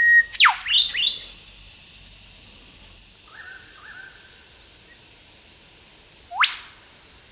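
Eastern whipbirds calling. Near the start a held whistle ends in a sharp whip-crack, and a few quick short notes answer straight after. Softer notes follow, then a long high whistle ends in a second whip-crack about six and a half seconds in.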